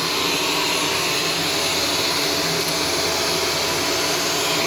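Shark Stratos upright vacuum cleaner running steadily, an even rushing noise of motor and airflow with a faint hum.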